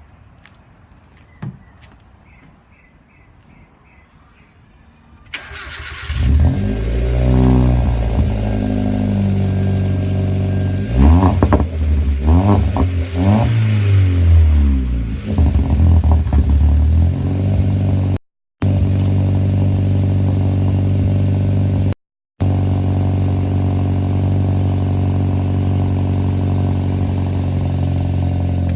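A 2012 Hyundai Veloster's 1.6-litre four-cylinder with a straight-piped exhaust, cold-started: a short crank about five seconds in, then it catches and is revved several times in rising and falling sweeps before settling into a loud, steady idle. The sound drops out completely twice for a moment.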